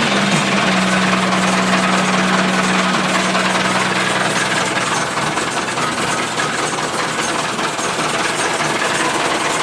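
Massey Ferguson 275 tractor's diesel engine running steadily, driving a rotary tiller. A steady hum sits under the engine noise and fades out after about four seconds.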